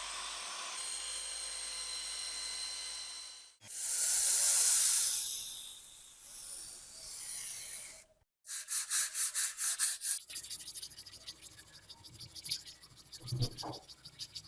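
Workshop sounds in quick cuts: a small rotary power tool whirring steadily for the first few seconds, then a loud spray-like hiss, then rapid rubbing or scrubbing strokes on a rusty metal part for the last six seconds.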